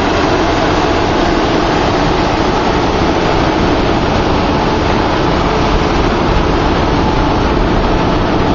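Deutsche Bahn regional train, a class 112 electric locomotive with double-deck coaches, pulling out and rolling past at close range: a steady, even rushing rumble of the train's wheels on the rails.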